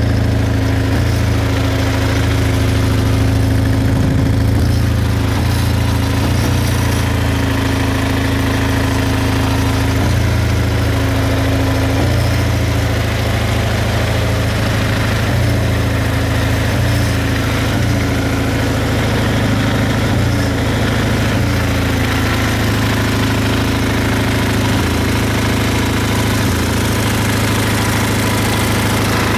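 Kawasaki Z750FX-III (KZ750E) motorcycle engine idling steadily, its note wavering slightly.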